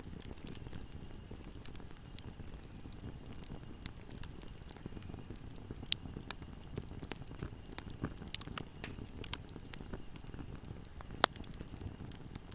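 Wood fire crackling: a steady low rumble of flames with scattered small pops and ticks, and two sharp louder snaps, about six seconds in and again near the end.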